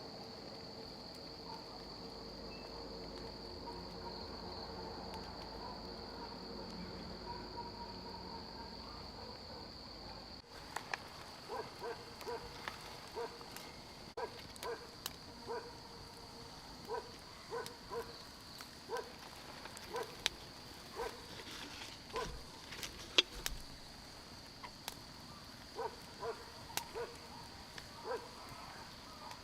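Steady high-pitched drone of rainforest insects. From about ten seconds in, a run of short soft sounds comes roughly once or twice a second over the drone.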